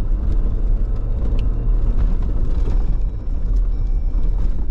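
A Jeep driving along a dirt trail: a steady low engine and tyre rumble, with scattered light clicks and rattles.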